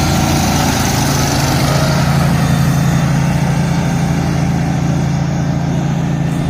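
Garden tractor engines running steadily as the tractors drive off in a race. The engine hum holds one even pitch and eases off slightly in the second half.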